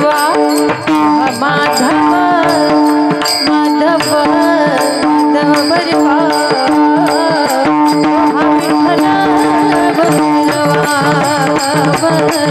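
Marathi kirtan music between sung lines of an abhang: a held melody with steady drone notes over a fast, even percussion beat.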